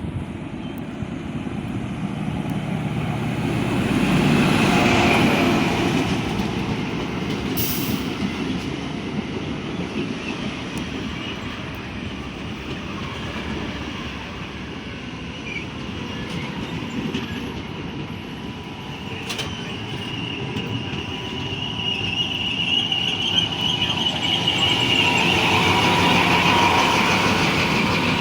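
XPT diesel passenger train pulling into the platform: the Paxman diesel engine of a power car running and the carriages rolling past on the rails, louder about five seconds in and again near the end, where a high wheel or brake squeal comes in as the train slows.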